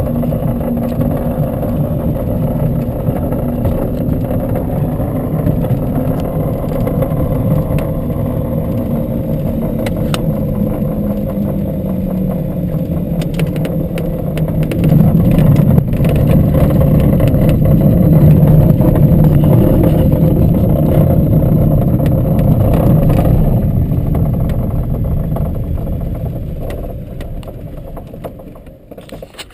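Light aircraft's piston engine and propeller running steadily, its pitch falling about halfway through and the sound growing louder for a while, then dying away over the last few seconds.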